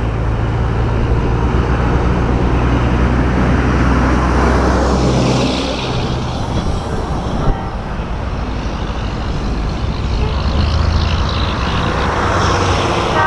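Heavy diesel semi trucks driving past in a convoy: steady engine rumble and road noise, with a short knock about halfway through.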